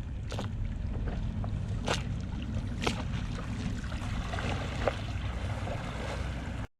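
Water splashing in a few short, sharp strokes over a steady low rumble on the water.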